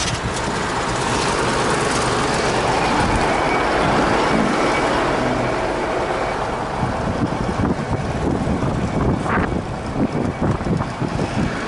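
Tractor diesel engine running, with a loud rushing noise over it that turns choppier about halfway through.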